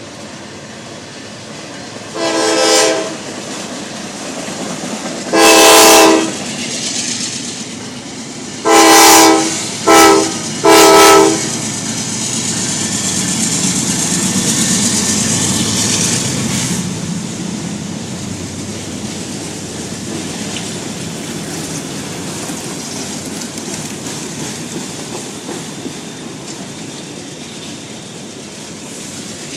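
Diesel locomotive horn sounding five blasts, a short one, two long ones, a short one and a long one, as a freight train approaches. The train's engines and wheels then rumble past steadily, with clicking of wheels over rail joints.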